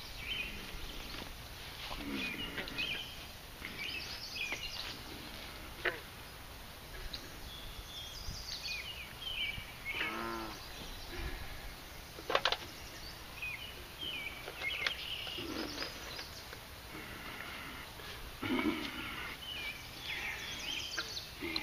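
Wild birds chirping and calling at the water's edge in many short, scattered calls, with a lower pitched call about ten seconds in.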